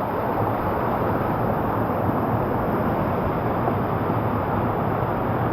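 Steady rush of flowing water in a canyon, an even noise that holds the same level throughout.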